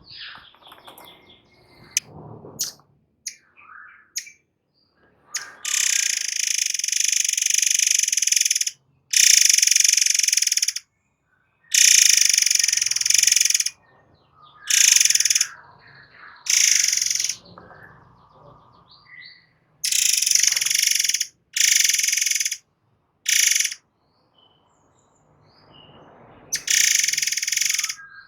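White-crowned forktail (murai air) calling in long, shrill, hissing bursts of one to three seconds each, about nine of them, with short chirps in between.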